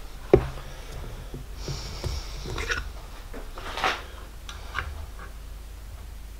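Small handling sounds at a workbench: a sharp click shortly after the start, then scattered light taps, a short hiss and a brief scrape, over a low steady hum.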